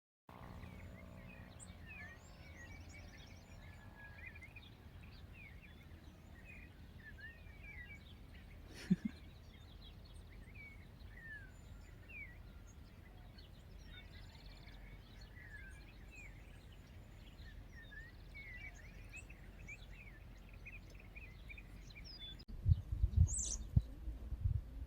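Many small birds chirping with short, quick calls over a faint steady low hum. Near the end, loud irregular low thumps come in.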